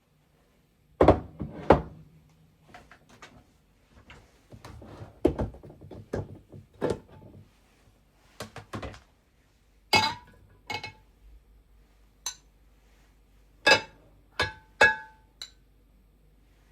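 Kitchenware being handled: a run of knocks and thuds, the loudest two about a second in, then several sharp clinks from about ten seconds in, some with a brief ringing tone, like dishes or utensils being set down.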